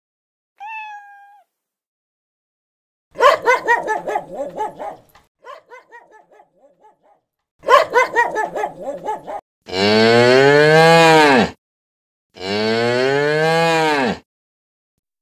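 A cat's short meow about half a second in, then a small dog giving two runs of quick, rapid yaps, then two long cow moos that rise and fall in pitch, about two seconds each and the loudest sounds.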